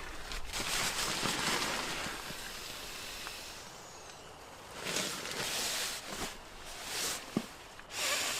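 Bursts of rustling and crinkling, a second or two at a time, from a bag of dehydrated mangoes being handled, with a couple of light clicks between.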